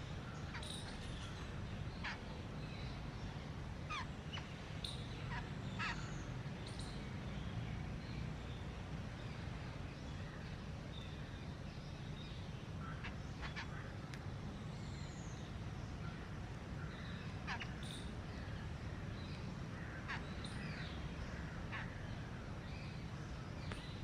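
Scattered short bird calls and chirps, a few falling in pitch, over a steady low rumble.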